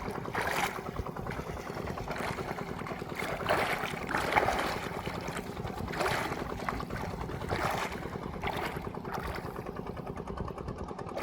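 A small boat's motor running steadily, with a rushing noise of water or wind that swells and fades every second or two.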